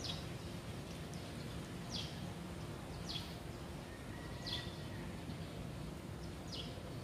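A bird repeating a short, falling chirp every second or two, over a faint steady low hum of background noise.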